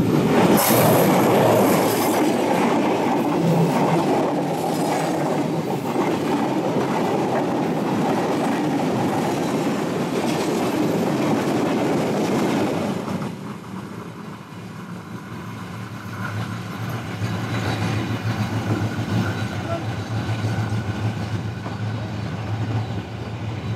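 Diesel-hauled express passenger train passing close at speed: a dense, loud rumble and rattle of the coaches' wheels on the rails that drops off suddenly about halfway through. It then gives way to a steadier rhythmic clickety-clack of wheels over rail joints as the train moves away.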